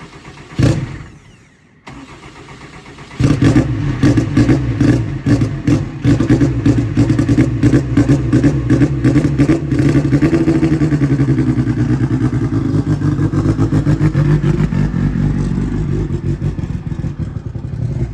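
A brief loud clunk under a second in. About three seconds in, a turbocharged Honda CRX engine running on E85 fires up and runs unevenly with quick throttle blips for a few seconds, then settles into steadier running.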